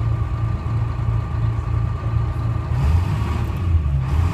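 Two-stroke Detroit Diesel 6V71 engine of a 1970-71 GMC New Look transit bus running with a steady low drone; about three seconds in its note shifts lower.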